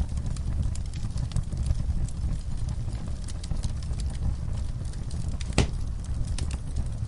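Wood fire burning: a steady low rumble of flames with scattered crackles and pops, one louder pop a little over five seconds in.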